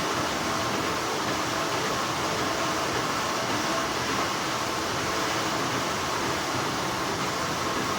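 Continuous steady hum of textile factory machinery, with a faint steady tone running through it.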